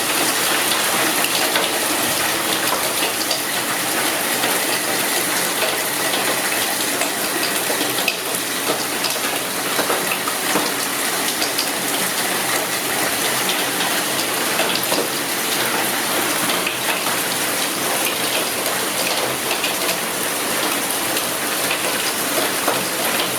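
Heavy downpour of rain and hail: a loud, dense, steady hiss peppered with countless small sharp hits.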